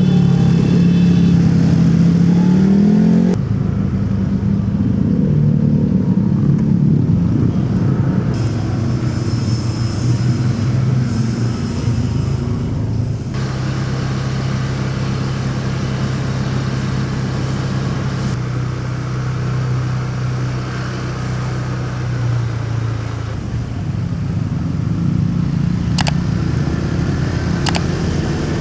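Motorcycle engine running steadily with road and traffic noise. The sound changes abruptly twice, a few seconds in and about halfway, and a few sharp clicks come near the end.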